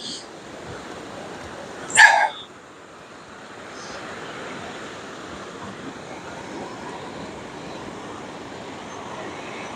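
A dog barks once, short and loud, about two seconds in, over a steady background wash of noise.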